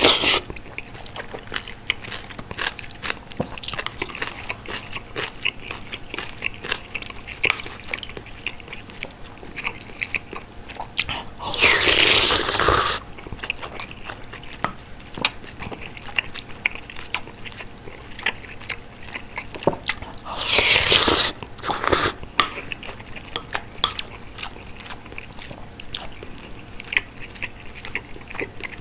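Close-miked chewing of bulgogi hot pot: wet mouth clicks and smacks. Two louder, longer bursts of noise come about twelve and twenty-one seconds in.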